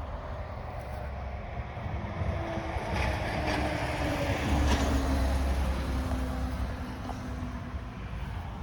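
Yanmar AF26 compact tractor's diesel engine running, swelling louder around the middle and then easing back.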